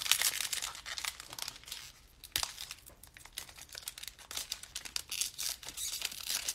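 Crinkling and tearing of a foil trading-card pack wrapper being handled, with dense, irregular crackles.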